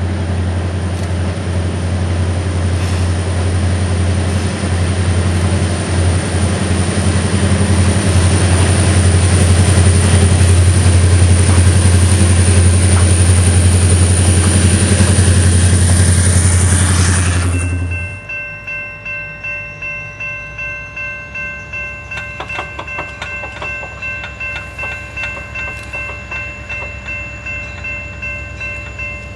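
Diesel-hauled passenger train passing, its locomotive engine running loud and steady with a deep hum. About 18 seconds in the sound drops off sharply to the wheels' regular clickety-clack over rail joints, about two beats a second, with steady high tones over it.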